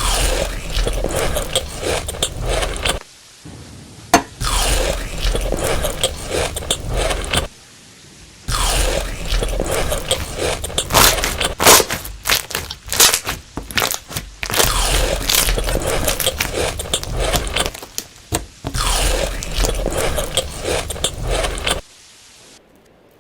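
Close-up crunching and chewing of crispy food, in five runs of a few seconds each with short pauses between them.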